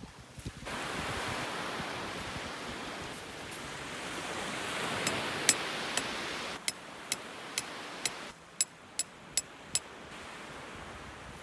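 Sea waves washing on the shore with wind on the microphone. Through the second half come about ten sharp, separate clicks.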